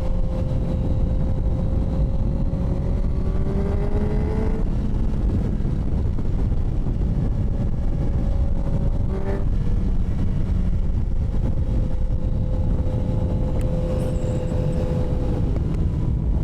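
Motorcycle engine running under way with heavy wind rush, its note climbing a little and then dropping twice as the rider changes speed.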